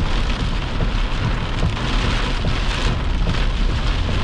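Heavy rain pelting a vehicle driving through a severe thunderstorm: a dense, steady hiss with a low rumble underneath.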